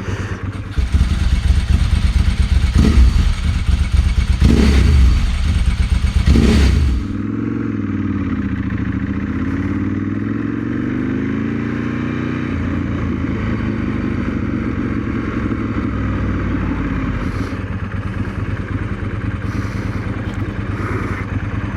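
1997 Ducati 916's V-twin engine running: loud and rough with three sharp peaks in the first seven seconds, then quieter and steadier, its note rising and falling a few times before settling into a steady run.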